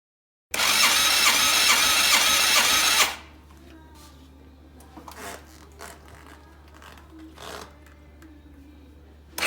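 Yamaha Drag Star 250's V-twin being turned over on its electric starter: a loud, fast, even mechanical whirring for about two and a half seconds that stops abruptly without the engine firing. The engine was declared to have no compression. Faint clicks follow, and a second burst of cranking starts near the end.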